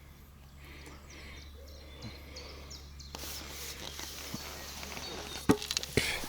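Outdoor ambience with faint bird chirps in the first half, then a rushing noise from about three seconds in. Near the end come two sharp knocks about half a second apart, the loudest sounds.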